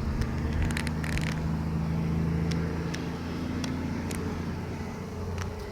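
Honey bees buzzing in a steady, low droning hum, with a few light clicks over it.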